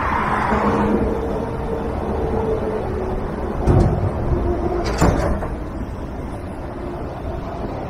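Strong wind buffeting the microphone in a low rumble, with a faint steady hum early on and two sharp knocks about four and five seconds in.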